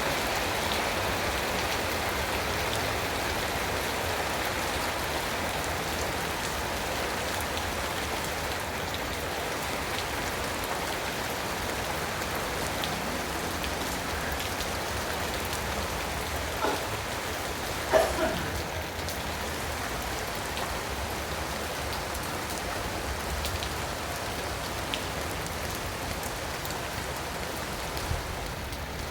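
Steady rain falling, an even hiss. Two brief sharper sounds break through about two-thirds of the way in, the second with a short falling pitch.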